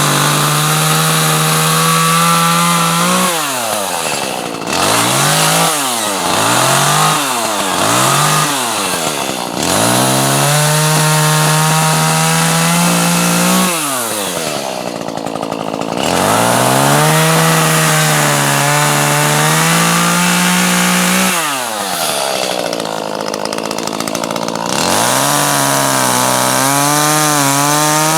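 Chainsaw cutting wood, running at high revs under load. Several times the engine speed drops off and climbs straight back up as the throttle is eased and squeezed again, with the longest steady cuts in the middle and second half.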